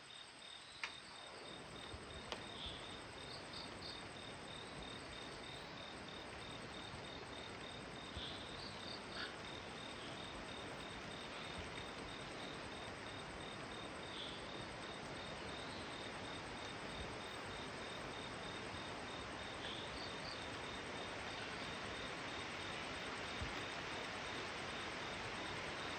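Heavy monsoon rain approaching through forest: a broad rushing hiss that grows gradually louder. Above it an insect keeps up a steady high trill, with a few short chirps now and then.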